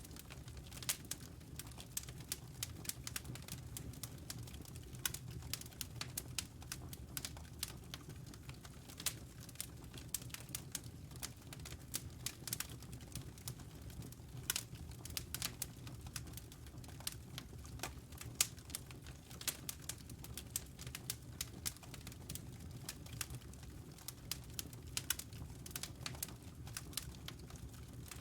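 Wood fire in a fireplace crackling: irregular sharp snaps and pops over a low steady rumble of the burning logs.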